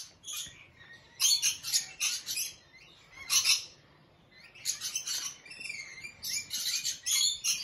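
Small birds chirping and twittering, many short high calls in quick clusters with brief lulls between them.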